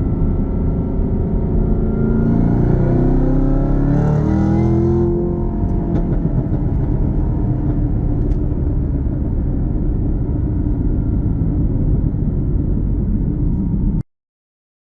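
2018 Camaro ZL1's supercharged 6.2-litre V8 running through Borla mufflers, with a Rotofab cold-air intake, while being driven: the engine note climbs as the car accelerates for a few seconds, falls away as the driver lifts off about five seconds in, then holds steady. The sound cuts off abruptly about a second before the end.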